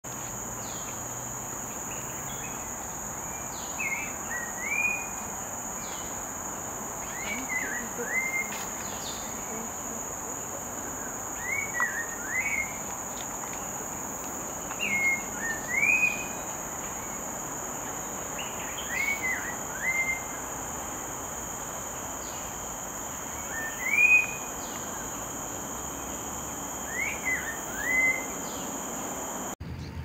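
A bird singing a short whistled phrase, a quick falling note then a rising one, repeated about every four seconds, seven times in all. Under it runs a steady high-pitched insect drone that cuts off suddenly near the end.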